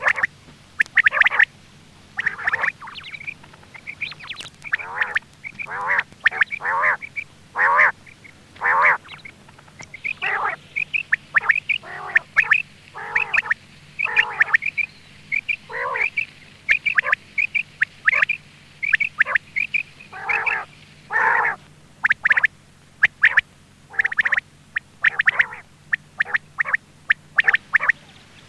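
Quail calling, as used as a hunting lure: short, harsh calls repeated in irregular runs of about one or two a second. A faint steady low hum runs beneath.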